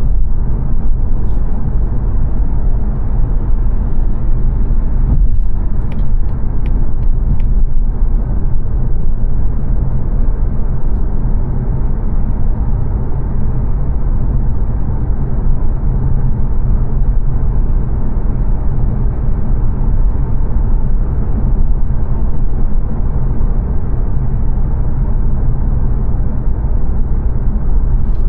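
Steady low rumble of road and engine noise heard inside the cabin of a 2022 Mazda 3 saloon cruising along the A3 dual carriageway.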